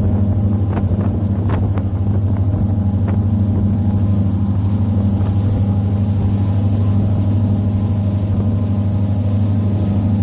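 Charter fishing boat's engine running steadily with a loud, even low drone, with a few light knocks in the first few seconds.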